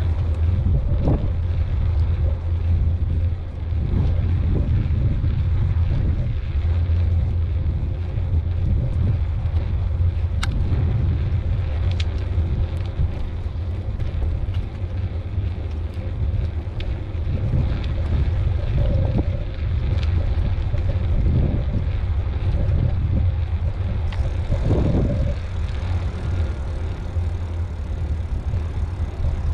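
Wind buffeting the microphone on a moving mountain bike: a steady low rumble with a few faint clicks and rattles from the bike.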